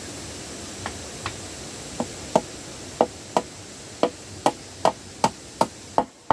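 A hand tool chopping with repeated sharp strikes, about two to three a second, growing louder about two seconds in, over a steady rushing background.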